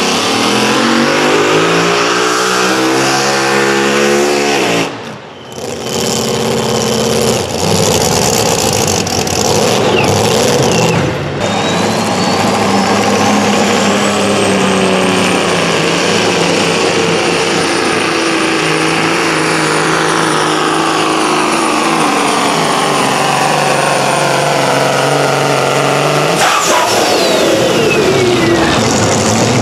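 A pulling vehicle's engine running hard at full throttle down the track, its pitch climbing over the first few seconds with a brief break. A high steady whine comes in partway through and holds. Near the end the engine winds down, its pitch falling as the pull ends.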